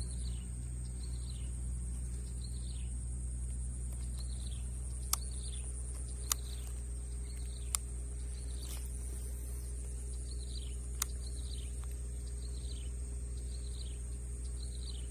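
Rural pond-side ambience: a bird repeats a short falling call a little more than once a second over a steady high insect buzz and a low rumble. A few sharp clicks come through in the middle.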